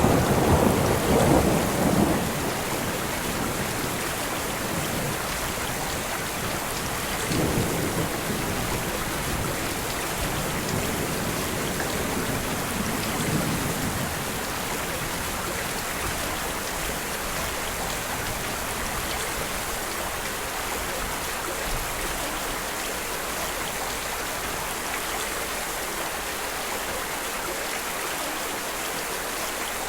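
Steady rain with low rumbles of thunder in the first half, the last of them dying away about fourteen seconds in, leaving the rain alone.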